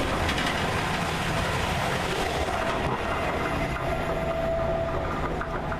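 Class 222 Meridian diesel multiple unit passing through the station, a steady rush of engine and wheel noise. A faint steady whine comes in about halfway through.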